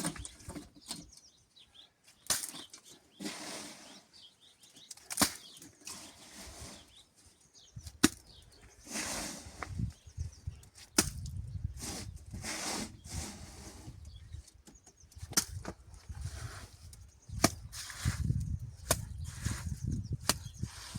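Hand tools working wet cement: irregular scraping strokes broken by sharp knocks, the loudest about two, five, eight and fifteen seconds in.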